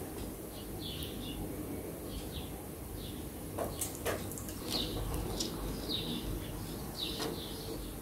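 Small birds chirping in the background: short high chirps, irregular, about one or two a second. A couple of sharp clicks about four seconds in, over a low steady hum.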